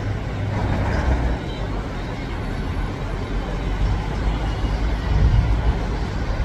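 Steady low rumble of a Boeing 747's jet engines as it taxis, swelling slightly about five seconds in.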